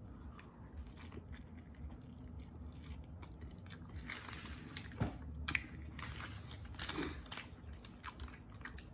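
Close-up chewing of a mouthful of breakfast burrito, with many small wet mouth clicks and a few louder crunches midway.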